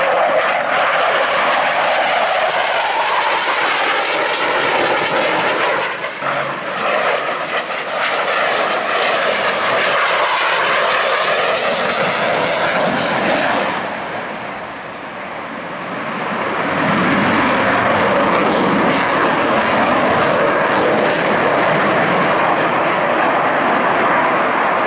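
McDonnell Douglas CF-18 Hornet fighter jet's twin turbofan engines running loud through a display pass, with wavering pitch as the jet moves. The sound breaks off briefly about six seconds in and dips around fifteen seconds before coming back loud.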